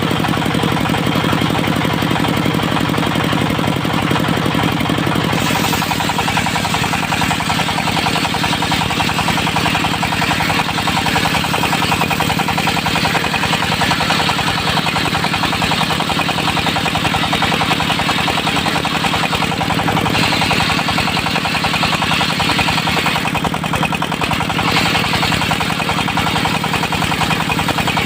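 Diesel engine of a portable circular sawmill running steadily, with a harsher, hissier sound joining from about five seconds in.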